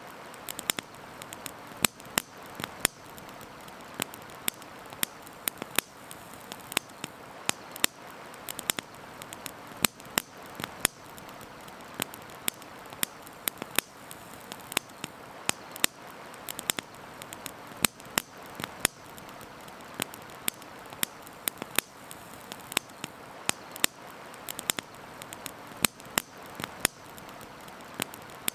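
Campfire burning: wood crackling with frequent sharp, irregular pops, over a steady rushing hiss of a river.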